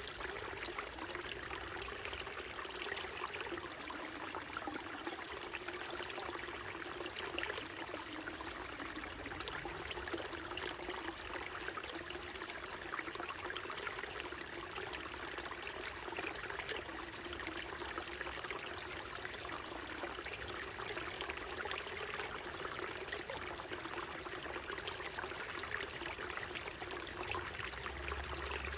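Small mountain stream running steadily over rocks, a continuous babble of trickling and splashing water.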